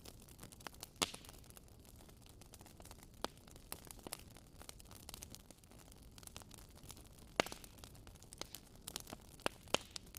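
Wood fire in a fireplace crackling over a steady low hiss, with irregular sharp pops; the loudest come about a second in, past the middle and near the end.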